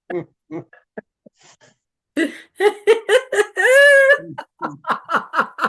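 A person laughing in short rapid bursts, with one drawn-out wavering vocal cry about halfway through, then more laughter.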